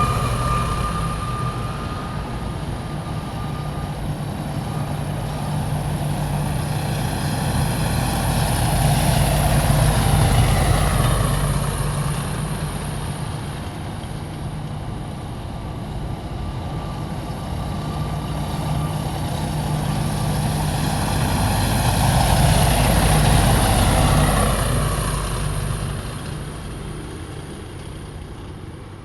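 Heavy military vehicles driving past one after another, their engines rumbling with a steady high whine at times. The sound swells as one passes about a third of the way in and again as another passes after about twenty seconds, then fades as it moves away near the end.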